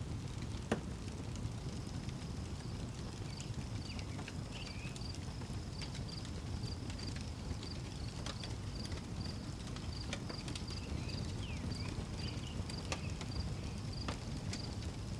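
Outdoor wood fire crackling, with scattered sharp pops, one loud pop near the start, over a steady low rumble. A cricket chirps in a regular pulse about three times a second, and a few brief bird chirps come and go.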